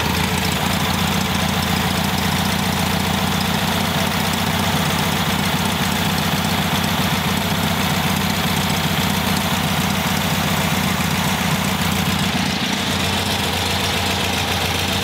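Freshly rebuilt air-cooled VW Beetle flat-four engine idling steadily. Its carburettor's CO mixture screw is being turned out to richen an idle mixture that read too lean.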